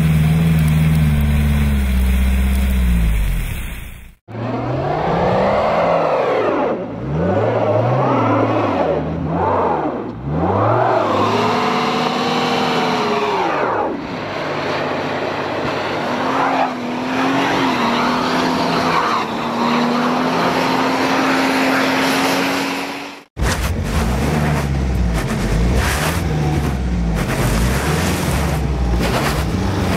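Car engines revving over and over as stuck cars spin their drive wheels in snow; the engine note swings up and down, with a longer steady high rev in the middle section. The sound cuts abruptly between cars about four seconds in and again near the end, the middle stretch being a Ford Mustang spinning its rear wheels in snow.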